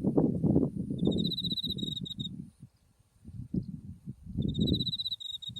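A cricket chirping in two pulsed trills, each about a second long, one early and one near the end. Under it runs an uneven low rumbling noise, the loudest sound, which fades out midway and returns.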